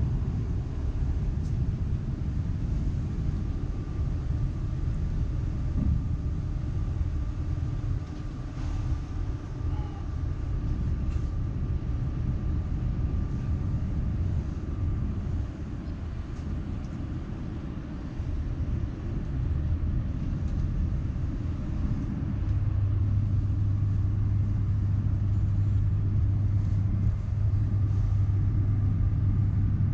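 Steady low rumble of a train, with a faint high tone in the first half; about two-thirds of the way in a strong steady low hum sets in and the sound grows a little louder.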